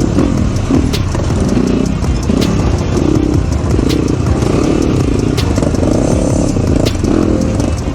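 Several dirt bike engines running and revving as a group of riders pulls away, the engine pitch rising and falling unevenly.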